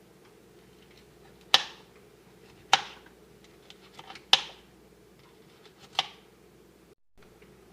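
Knife chopping on a cutting board: four sharp strikes spaced a second or more apart, with a few faint clicks between them.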